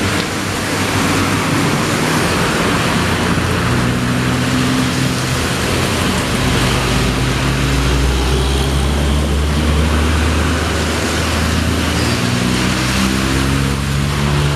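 Heavy truck's diesel engine labouring up a steep climb, its pitch climbing near the end, over a steady hiss of rain and wet road noise.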